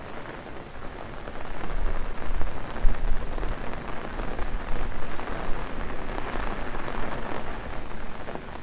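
Heavy rain falling on an umbrella, getting louder about a second and a half in, with a low rumble underneath.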